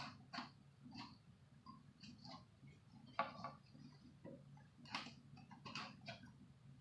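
Faint, irregular light clicks and taps of small clock parts being handled.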